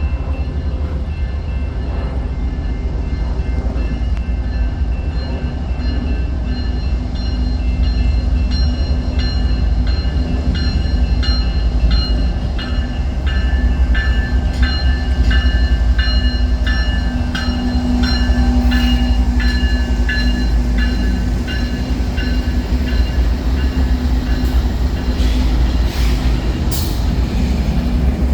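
A train passing with a heavy, steady rumble. Evenly repeating metallic strikes with a ringing tone build up, peak in the middle and fade out near the end.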